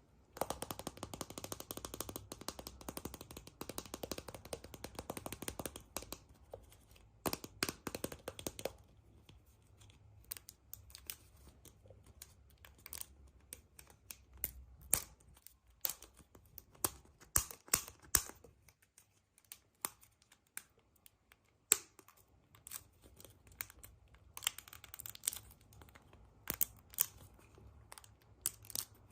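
Surprise eggs being unwrapped and opened by hand: wrappers crinkle and rustle for the first several seconds, then come scattered sharp clicks and taps of handling.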